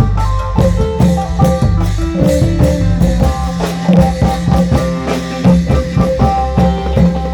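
Isan folk music: a phin, a plucked lute, playing a quick melody of short notes over steady, busy drumming.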